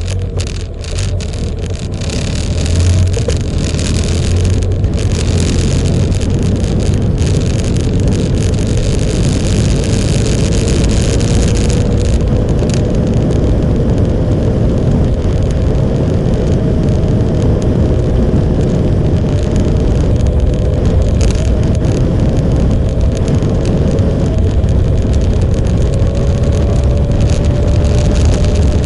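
Motorcycle running at road speed under heavy wind rush on the microphone, getting louder about two seconds in. A faint engine tone rises slowly as it holds pace.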